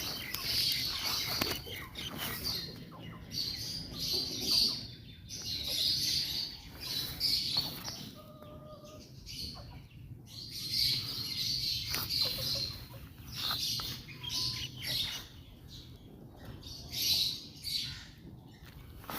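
Parblue lovebird chick giving repeated raspy calls in bouts of about a second, with light clicks and rustling between them.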